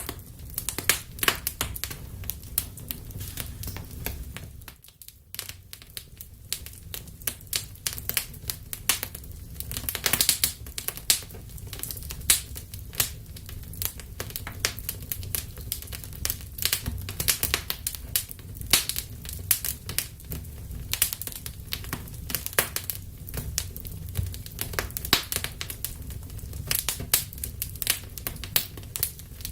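Wood fire burning in a fireplace: dense, irregular crackles and sharp pops over a low, steady rumble of flames. The sound dips briefly about five seconds in.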